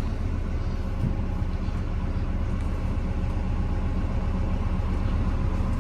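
A Sany telehandler's diesel engine running steadily, a low even drone heard from inside its cab.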